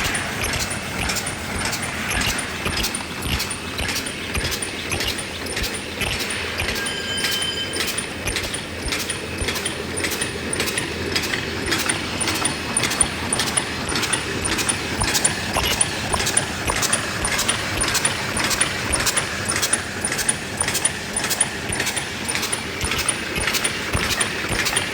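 High-speed paper cup forming machine running, its mechanism clacking in a fast, even rhythm over a steady mechanical noise.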